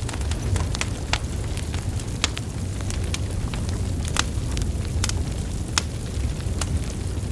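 Wood fire burning: a steady low rumble of flames with sharp, irregular crackles and pops from the burning logs, a few louder snaps among them.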